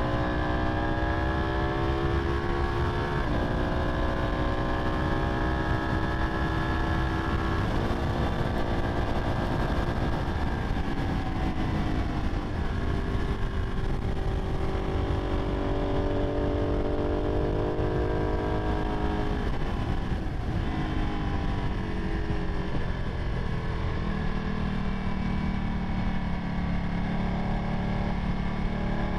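Ducati 959 Panigale's Superquadro twin-cylinder engine running under way, its note rising and then dropping suddenly several times as it changes gear. Heavy wind rumble on the microphone runs under it.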